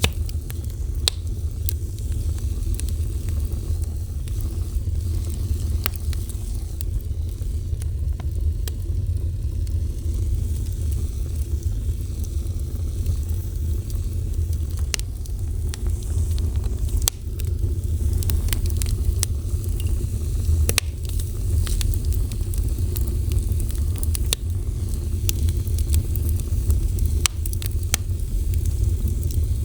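Wood fire burning with a steady low rumble of flame and scattered sharp crackles and pops.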